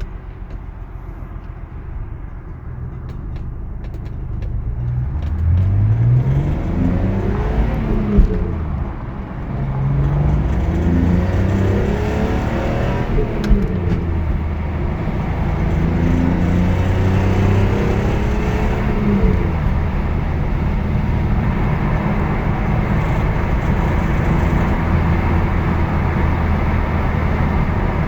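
BMW E46 M3's straight-six engine pulling hard through the gears: the pitch climbs three times, dropping back at each gear change, then settles to a steady cruise. The owner reports a rattle from the car under acceleration.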